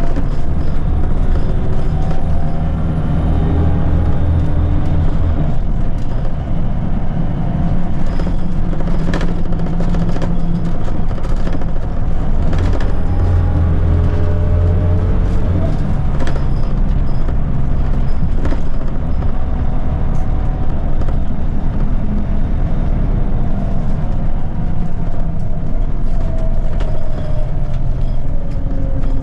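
Scania L94UB bus's diesel engine and ZF automatic gearbox running under way, the pitch climbing and dropping several times as it accelerates and changes gear.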